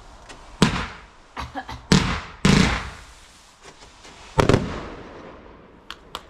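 Garden fireworks going off: an uneven string of sharp bangs, the loudest about half a second, two, two and a half and four and a half seconds in, each trailing off in a short crackle or echo, with smaller cracks in between.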